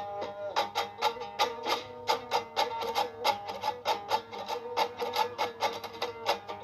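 Instrumental music: a plucked string instrument playing a quick, rhythmic run of notes.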